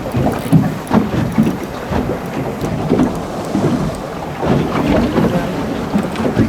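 Wind buffeting the microphone and water noise aboard a boat at sea, in irregular gusts.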